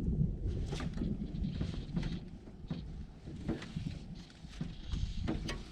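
Wind rumbling on the microphone with scattered light clicks and knocks, from handling gear in a small fishing boat on a lake.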